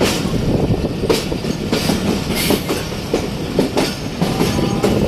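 Passenger train running on the track: a steady rumble from the coach with irregular clacks of the wheels over rail joints.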